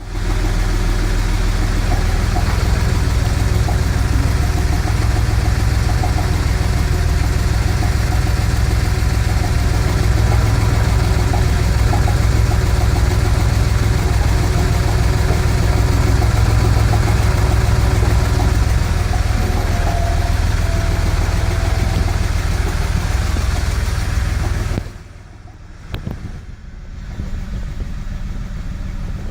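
Car engine idling steadily with a deep, even beat, then stopping suddenly near the end, followed by a single click.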